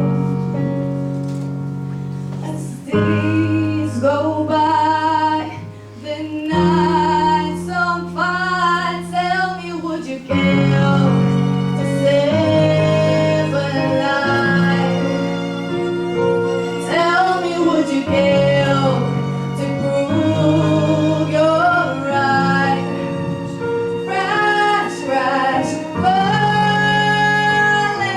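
A woman singing a slow ballad over sustained piano chords, with violins accompanying.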